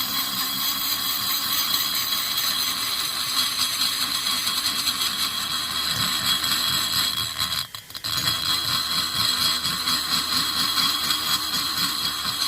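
High-speed rotary grinding tool running steadily with a high whine, grinding the aluminium of a Stihl MS460 chainsaw cylinder's exhaust port to flatten and smooth it. The tool stops for a moment a little past halfway, then starts again.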